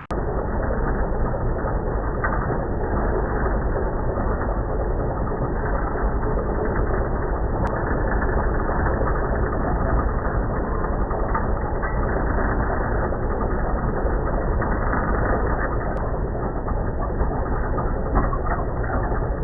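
Farm tractor engine running at a steady speed, a dense even mechanical noise with no breaks.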